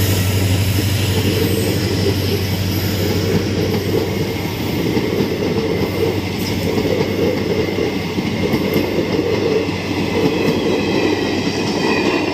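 Indian Railways passenger coaches rolling past on the track, a steady loud rumble of wheels on rails. A low hum, strongest at the start, fades over the first several seconds.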